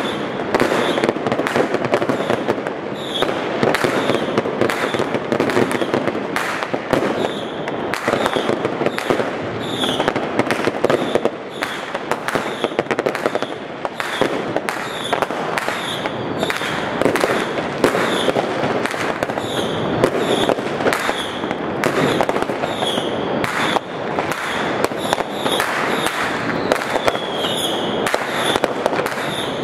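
A dense, unbroken barrage of firecracker and firework bangs, many a second, overlapping into a continuous din of cracks and blasts.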